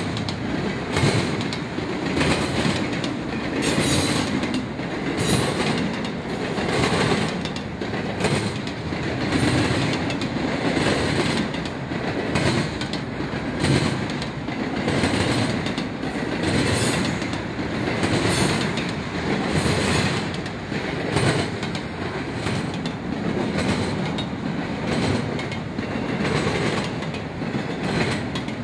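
A passing train's cars rolling by steadily, the wheels clacking over the track in a regular rhythm, about once every second or so, over a constant rumble.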